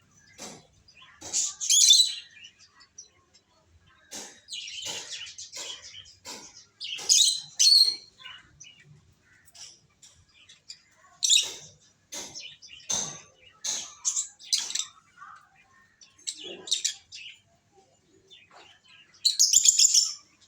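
Pet lovebirds chirping in short, high, irregular bursts. The loudest flurries come about two seconds in, around seven to eight seconds, and just before the end.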